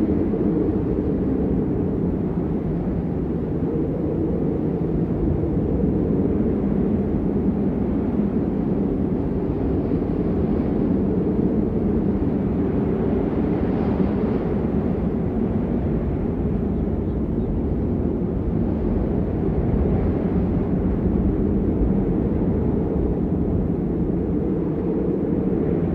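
Steady rain, an even, unbroken noise that is deep and muffled, with little high hiss.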